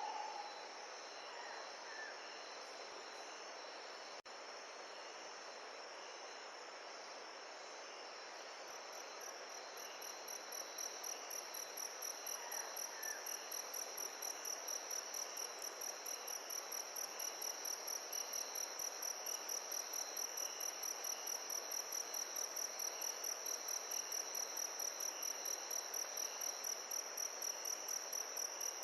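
Insects trilling in a steady, high-pitched chorus that grows louder about a third of the way in and then pulses rapidly and evenly, over a soft, steady rushing background.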